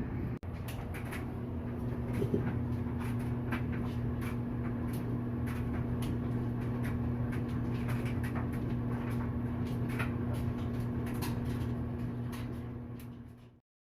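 Whirlpool clothes dryer running empty after a makeshift repair for a squeak: a steady motor and drum hum with irregular light ticks and clicks over it, fading out near the end. Its owners are unsure whether this is its normal sound or comes from the drum being empty.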